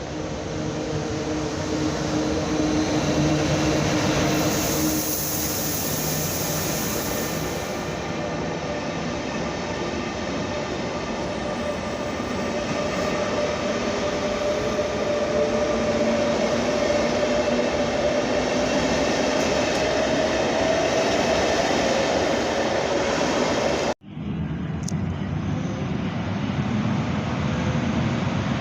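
Electric train running through the station: steady rolling and motor noise, with a hiss about four to eight seconds in and a whine that slowly rises in pitch over about ten seconds. The sound drops out for an instant near the end, then picks up again.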